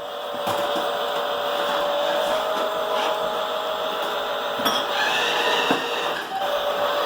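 Small electric drive motor and plastic gears of a toy RC food truck running, a steady whine over a rough mechanical buzz.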